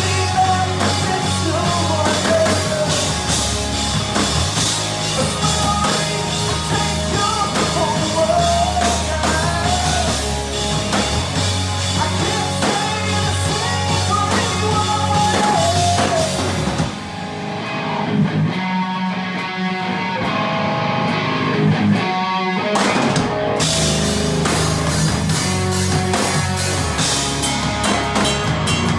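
Rock band playing, with drum kit, electric guitar and a wavering melody line over them. About 17 seconds in, the drums and cymbals drop out for a few seconds, leaving a thinner guitar-led passage, and the full band crashes back in about 23 seconds in.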